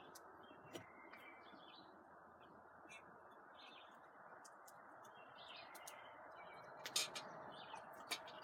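Faint bird chirps scattered throughout over a steady low hiss, with two sharp clicks near the end.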